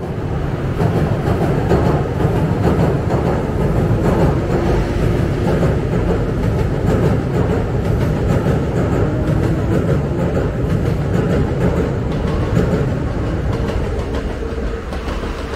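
Nose Electric Railway electric train running along the line: a steady rumble of wheels on rail with a faint motor whine. It fades a little near the end.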